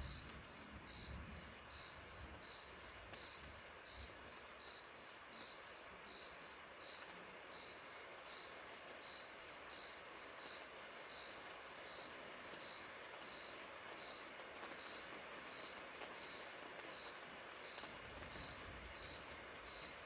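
Cricket chirping steadily: short, high chirps about two a second, alternating slightly in pitch, over a faint background hiss.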